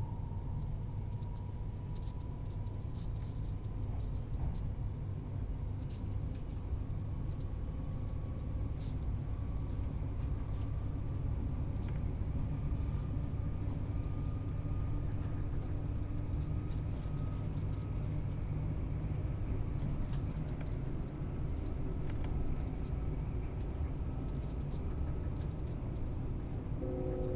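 Queensland Tilt Train running at speed, heard from inside the carriage: a steady low rumble with a faint whine that rises slowly in pitch, and scattered light ticks.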